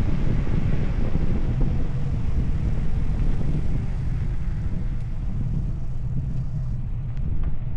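Wind buffeting the microphone: a dense low rumble, with a faint hum sliding slowly lower through the first half and a few light clicks near the end.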